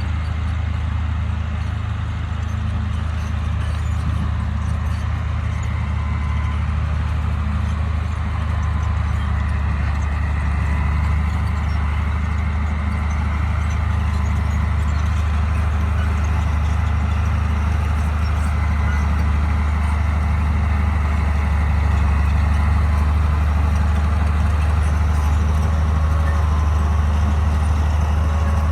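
Bulldozer's diesel engine running steadily under load, a deep, constant drone that grows slightly louder toward the end.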